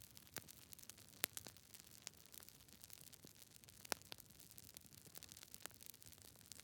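Campfire crackling: burning wood giving off a steady scatter of small pops and snaps over a faint hiss. There are two sharper pops, one about a second in and one about four seconds in.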